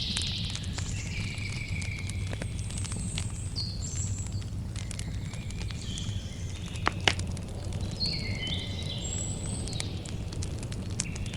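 Campfire crackling with scattered small pops and one sharper pop about two-thirds of the way through, over a low steady rumble. Birds chirp in short high phrases throughout.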